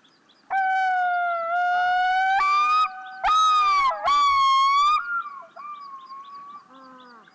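Arctic divers calling in chorus, white-billed and Pacific divers: loud, long wailing notes that step up in pitch, with a fast quavering yodel in the middle, then quieter calls near the end. A small bird chirps repeatedly in the background.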